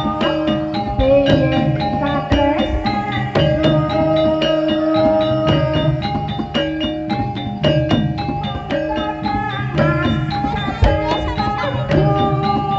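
Live gamelan music for an ebeg (jaran kepang horse-dance) performance: kendang hand drums beat a driving rhythm over ringing struck metallophone notes.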